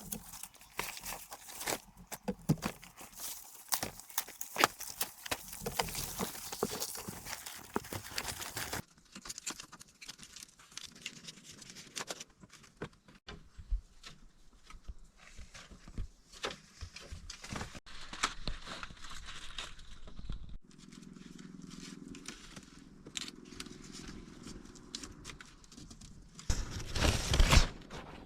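Dry grass and bamboo being handled: rustling, crackling and tearing with scattered knocks, broken into several stretches that change abruptly, with a burst of louder knocks near the end.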